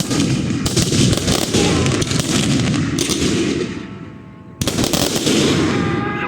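Fireworks going off in dense, rapid strings of bangs and crackles. They fade briefly about four seconds in, then start again suddenly and loudly.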